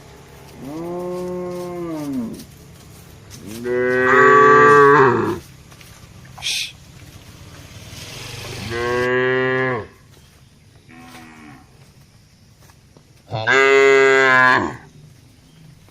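Cattle mooing: four long moos from the herd, each rising and then falling in pitch, with a faint short one between the last two; the second is the loudest.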